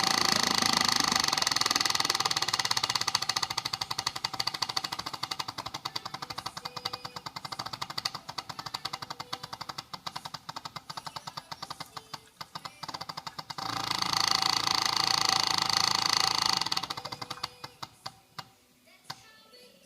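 Bad electric fuel pump running with a rapid buzzing rattle that fades and falters, comes back strongly for a few seconds, then sputters out near the end, followed by a few clicks. It keeps running because it does not build pressure.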